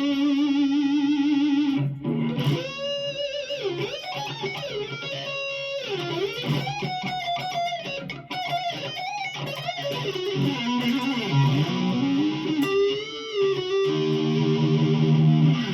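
1992 Gibson Les Paul Custom played through an overdriven amp on its neck pickup, an Oil City Scrap Yard Dog+ Alnico 8 humbucker in full humbucking mode, so it is free of the buzz that the split single-coil setting picks up. Held chords near the start and the end frame a lead line with bent and wavering notes.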